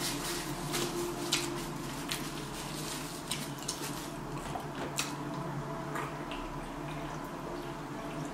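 Close-up wet chewing and mouth sounds of someone eating a chicken gyro, with small irregular smacks and clicks.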